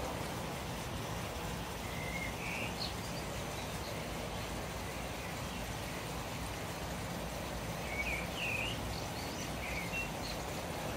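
A small bird chirping in short call phrases, a couple about two seconds in and a livelier cluster around eight to ten seconds, over a steady outdoor rush of noise.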